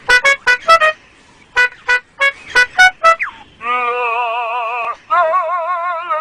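Superb lyrebird mimicking a car alarm: a rapid run of short, sharp beeps, then a loud warbling alarm tone that breaks off briefly and starts again.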